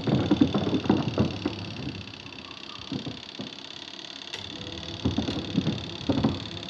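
Wash tub of a semi-automatic twin-tub washing machine running its wash cycle: the pulsator churns clothes in soapy water with irregular swishes and sloshing over a steady motor hum.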